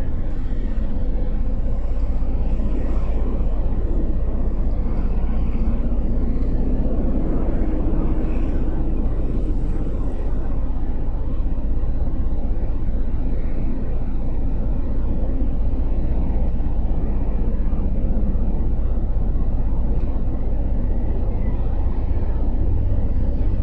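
Motorcycle riding in traffic: steady wind rumble on the helmet or bike microphone, with the engine's drone rising and falling underneath.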